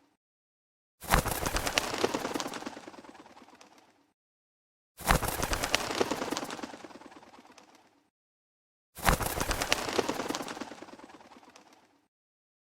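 Fireplace crackling and popping in a repeating pattern, three times. Each burst starts suddenly, is dense with sharp pops, fades out over about three seconds, then cuts to a second of dead silence before the next begins.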